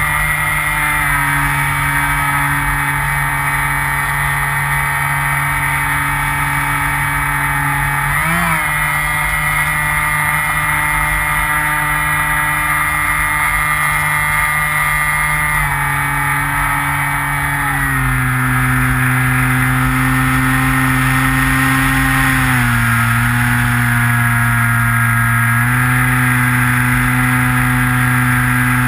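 Electric motor and propeller of a Skywalker FPV model plane running steadily, heard from the on-board camera. Its pitch steps up and down several times with throttle changes and warbles briefly about eight seconds in. Gusty wind rumbles on the microphone underneath.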